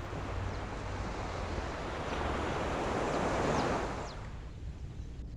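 Ocean wave washing onto the shore: a rushing surge that swells to a peak about three and a half seconds in, then falls away, over a steady low rumble of surf.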